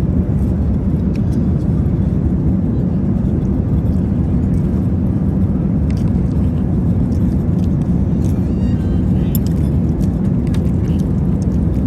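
Steady low cabin roar of an Airbus A380 in cruise flight, heard from an economy seat. A few faint clicks of cutlery on the meal tray come through it, mostly in the second half.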